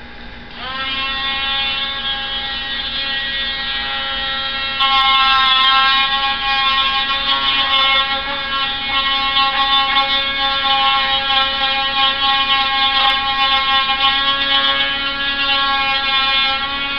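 A small electric motor running with a steady high hum, getting louder about five seconds in.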